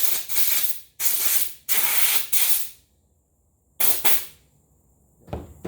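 Compressed-air blow gun giving a string of short blasts of hissing air through the first three seconds, with two more about four seconds in.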